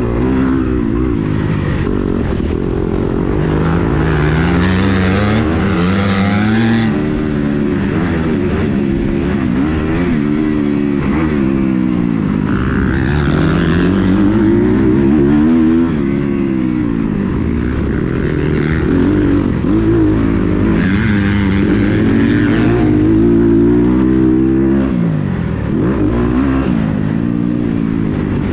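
Kawasaki KX250 motocross bike engine revving hard, its pitch rising and falling every couple of seconds as the throttle opens and closes and the gears change while riding the track.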